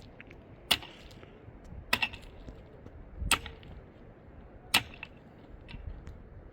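Four sharp blows struck at an even pace, about one every second and a half: a tool striking wood, as in chopping or hammering.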